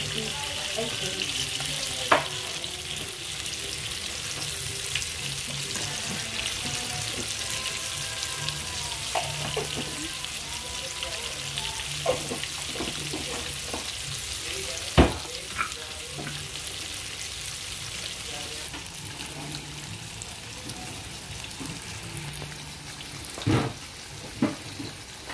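Chicken pieces frying in hot oil in a pan, a steady sizzle with a few sharp knocks, the loudest about 15 seconds in.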